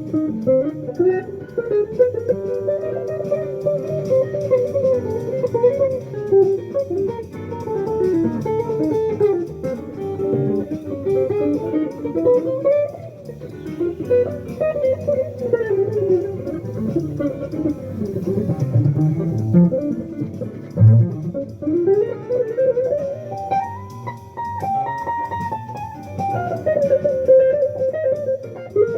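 Guitar playing jazz: a running single-note melody line that climbs and falls, over lower notes underneath.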